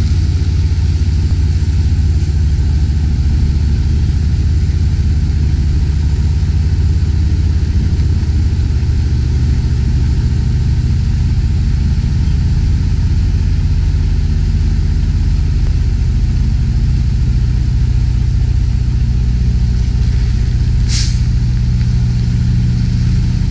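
Semi truck's diesel engine idling steadily with a deep, even drone, with one short hiss about 21 seconds in.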